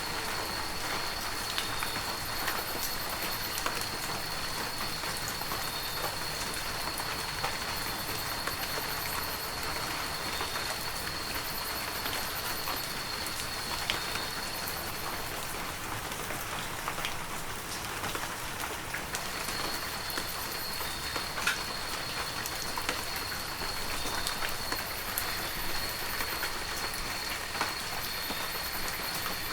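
Heavy rain falling steadily, with scattered sharp drop hits. A thin, steady high-pitched tone runs through it and breaks off for a few seconds around the middle.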